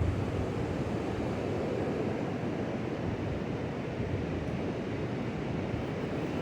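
Steady rushing noise of strong wind, with gusts buffeting the microphone in a low, uneven rumble.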